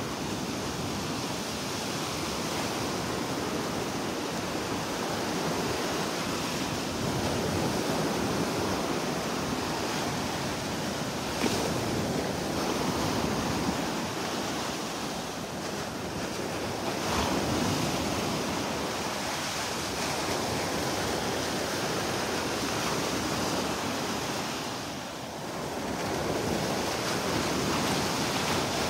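Gulf of Mexico surf washing steadily onto the beach, gently swelling and easing, with wind rumbling on the phone's microphone.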